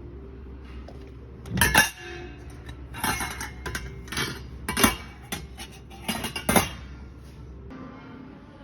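Hard household objects clattering and clinking, about five sharp knocks with a bright ringing tail, as things are knocked or set down against each other.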